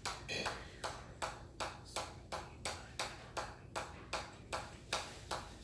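Hammer blows struck at a steady even pace, about three a second, each a sharp strike with a short ring.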